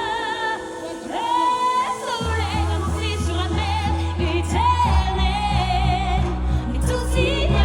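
A song performed with singing: long held notes with vibrato over backing music. A deep bass line comes in about two seconds in, and a steady beat joins a few seconds later.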